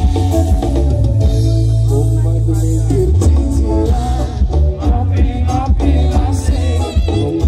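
Live dangdut band music played loud through a sound system, with heavy bass, plucked strings and a voice singing over a steady beat.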